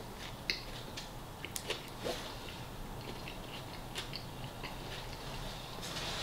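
A person chewing a mouthful of soft tortilla wrap close to the microphone: faint wet mouth clicks and smacks, scattered irregularly, with a few louder ones about half a second in, around two seconds and at four seconds.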